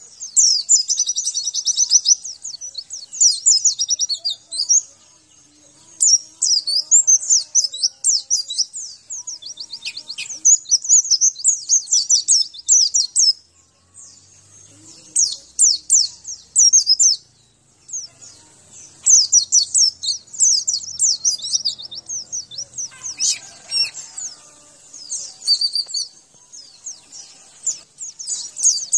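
White-eye (pleci) song: fast, high-pitched twittering phrases a few seconds long, one after another with short pauses, played as a training track to get caged white-eyes singing.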